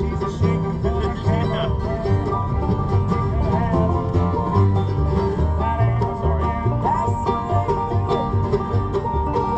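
Acoustic bluegrass band playing an instrumental passage: banjo over guitar, with a bass line stepping under them.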